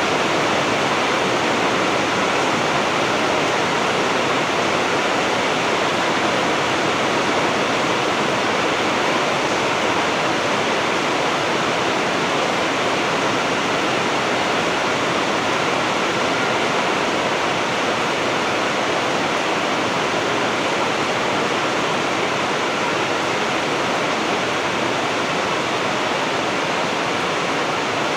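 Heavy rain falling in a steady, unbroken downpour, with no thunder.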